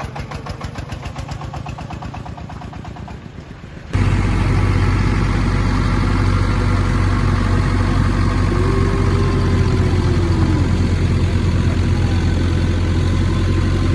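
Walking-tractor engines running: first a steady, fast chugging, then about four seconds in a sudden switch to a much louder, steadier engine sound.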